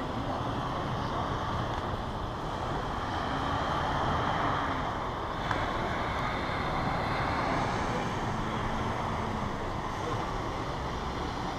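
Steady rushing background noise, with a single sharp click about five and a half seconds in.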